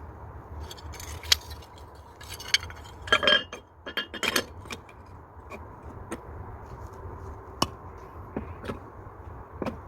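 Bricks clinking and knocking against each other as they are set in place dry, without mortar: a string of sharp clinks, some with a short ring, busiest in the first half, then a few single knocks.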